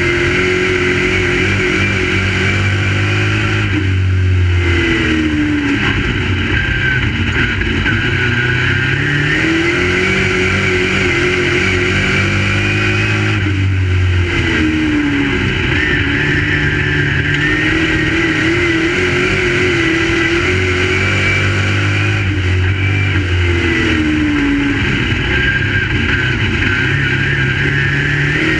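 Crate late model V8 racing engine running at race pace. Its pitch drops as it lifts off for each turn and climbs again down each straightaway, repeating about every nine seconds as it laps the short track.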